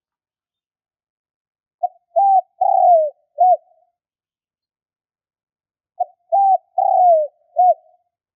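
Spotted dove song: two phrases of four cooing notes each, the third note longest and falling away at its end, about four seconds apart.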